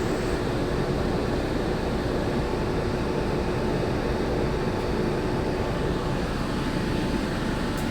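Walt Disney World monorail running, heard from inside the passenger car: a steady rumble with a constant hum.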